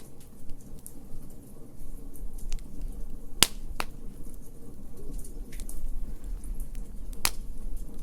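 Wood fire crackling: scattered sharp pops over a low steady rumble, with three louder pops, two close together about three and a half seconds in and one about seven seconds in.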